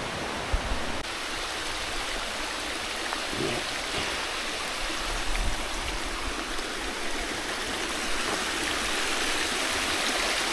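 Jungle stream running, a steady rush of water that grows a little louder near the end.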